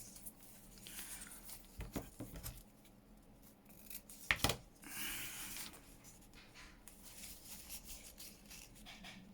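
Paper and washi tape handled at a craft desk: soft rubbing and rustling, sharp clicks about two seconds in and again past four seconds, and a short rasp about five seconds in.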